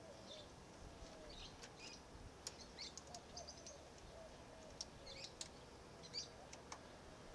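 Faint birds chirping in short, scattered high calls, with a few sharp light clicks.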